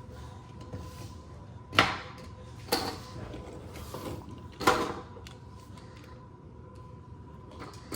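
Three sharp clacks, a second or two apart, as die-cast Hot Wheels monster trucks are picked up and set down on a countertop.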